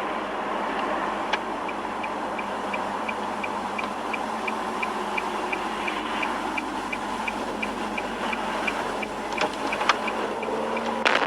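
A car's turn-signal indicator ticking steadily, at a bit over two ticks a second, over steady road and engine noise inside the cabin. A few sharper clicks come near the end.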